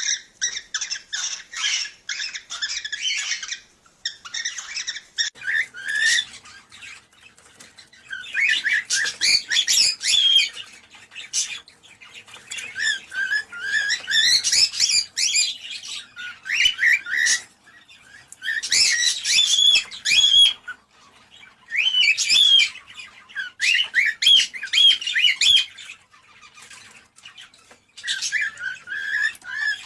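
Cockatiels chirping and warbling in quick, high-pitched phrases of a few seconds each, with short pauses between.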